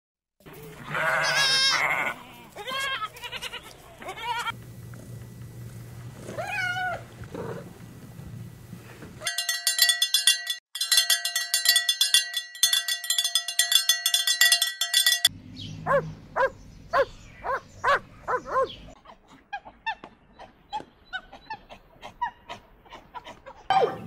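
Animal sounds from several clips in turn. First come wavering pitched calls for about nine seconds, then a steady ringing pattern of quick repeated notes for about six seconds, then a run of short clicks and chirps.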